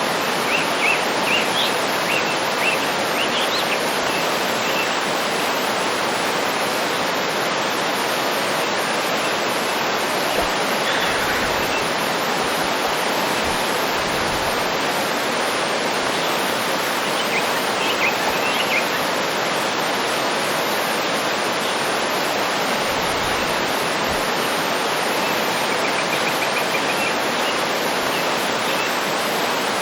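Waterfall rushing steadily, with birds chirping briefly over it in the first few seconds, again a little past halfway, and faintly near the end.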